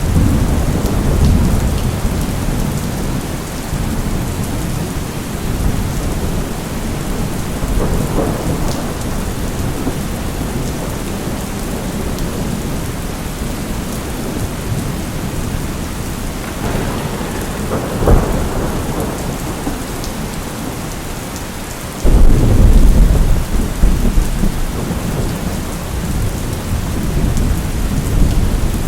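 Steady heavy rainfall with rolling thunder: a rumble right at the start, smaller ones about eight and eighteen seconds in (the latter with a sharp crack), and a sudden loud low peal about twenty-two seconds in that rumbles on to the end.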